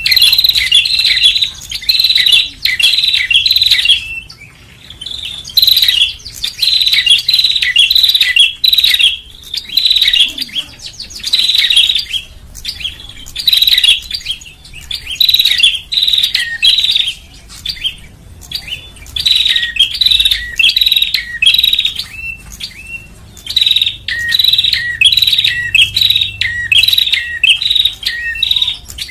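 Prinia (prenjak) calling: quick, loud runs of sharp chirping notes, repeated in bursts every second or two with brief pauses between.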